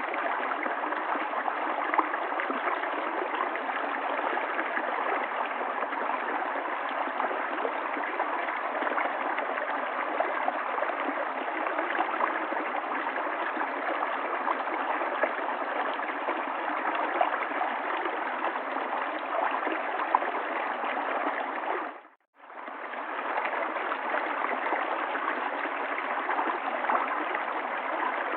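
Steady rush of flowing river water. It dips briefly to silence about 22 seconds in and fades straight back up.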